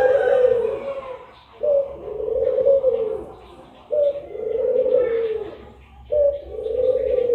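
Puter pelung dove (a long-voiced domestic turtle dove breed) cooing in a steady repeated pattern: about every two seconds, a short higher note runs into a long, slightly falling coo. About three full coos are heard.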